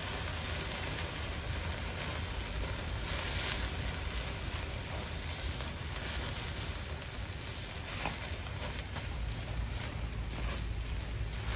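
Horumon (offal) sizzling on a grill over a campfire: a steady hiss, with a single sharp click about eight seconds in.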